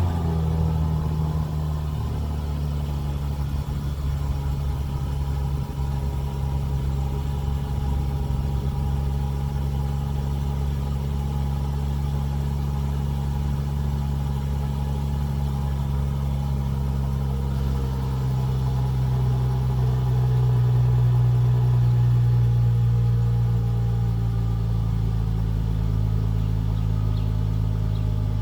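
Chrysler 300S engine idling steadily on its stock exhaust just after a cold start, swelling slightly louder about two-thirds of the way through.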